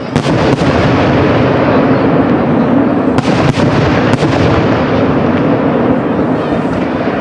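Aerial firework shells bursting: a dense, continuous rumble of bursts with sharp cracks just after the start and again around three to four seconds in.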